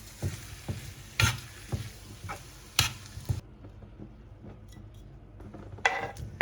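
A spatula or chopsticks knock and scrape in a frying pan, about two strokes a second, as japchae vegetables and fish cake are stir-fried in oil and oyster sauce over a sizzle. The sizzling cuts out about three and a half seconds in, and the stirring strokes pick up again near the end.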